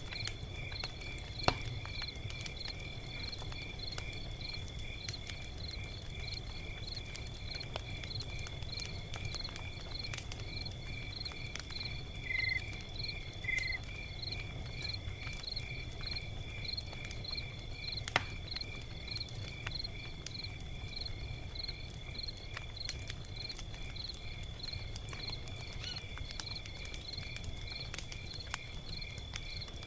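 Log fire crackling, with scattered sharp pops over a low steady rumble; the loudest pop comes about eighteen seconds in. Crickets chirp steadily in the background in an even rhythm.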